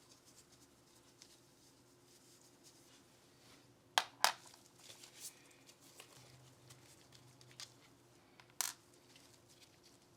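Small hard parts of a Glock pistol being handled at a bench: two sharp clicks close together about four seconds in and another near the end, with faint handling rustle between.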